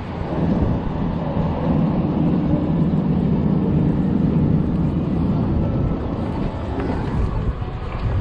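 Strong gusty wind buffeting the microphone of a moving e-bike, with a passing motor vehicle's engine swelling up in the middle.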